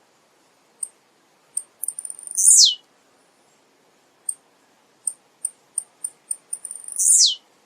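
Male blue-black grassquit (tiziu) singing: two short songs, each a very high note that sweeps sharply downward, about two and a half seconds in and near the end. Scattered short high chips fall between the songs and come quicker just before the second one.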